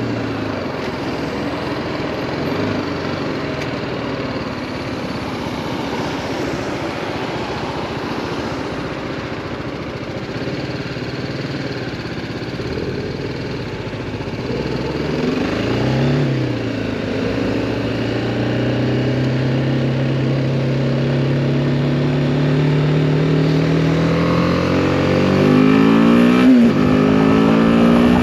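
BMW G310R's single-cylinder engine ridden slowly in traffic, then pulling away. There is a brief rev about 16 seconds in, after which the engine note climbs steadily as the bike accelerates, with a short break near the end like a gear change.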